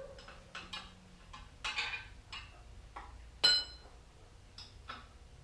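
Metal hand tools clicking and clinking against each other and the engine as spark plugs are pulled, a few scattered ticks with one sharp ringing clink about three and a half seconds in.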